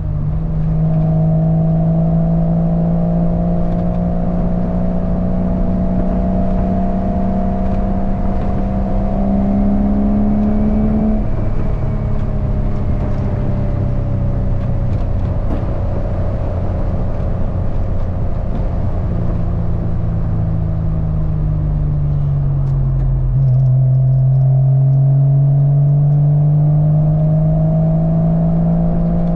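Porsche 986 Boxster's 2.5-litre flat-six running through a cheap aftermarket cat-back exhaust while driving, heard with the top down over road and wind noise. The engine note climbs slowly under acceleration, drops about eleven seconds in and sags as the car eases off, then grows louder and climbs again near the end.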